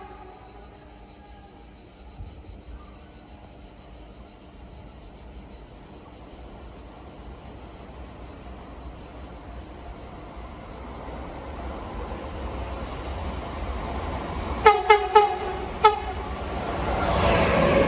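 A train approaching, its rumble slowly growing louder and swelling near the end, with four short horn toots about fifteen seconds in.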